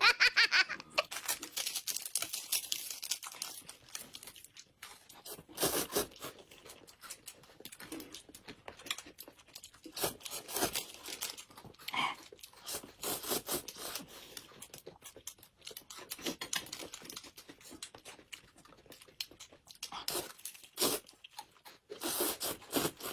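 Close-miked eating sounds: a person chewing and crunching food, with irregular wet clicks and smacks and a louder bite now and then.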